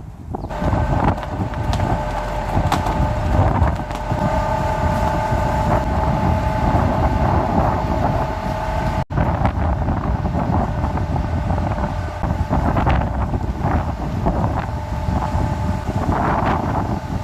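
Strong, gusting spring wind buffeting the microphone as a heavy rumble, with a steady whistle-like tone over the first half.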